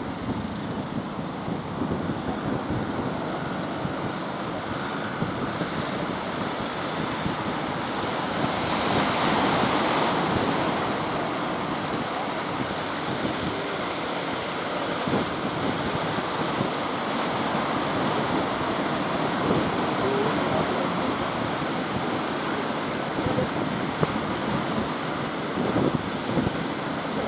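Big ocean surf breaking, with wind buffeting the microphone. About nine seconds in a larger wave breaks louder in a hissing wash that dies away over a couple of seconds.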